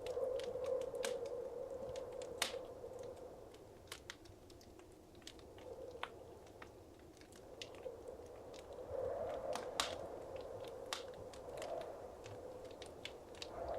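Wood fire crackling: irregular sharp pops and snaps over a soft, steady flame rush that swells a few times.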